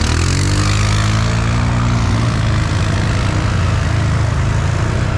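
ATV engine revving up and pulling away, its pitch rising over the first second, then running at a fairly steady speed under a wide rushing noise.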